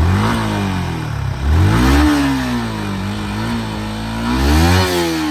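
Motorcycle engine revved up three times by twisting the throttle, its pitch rising with each twist and sinking back toward idle between.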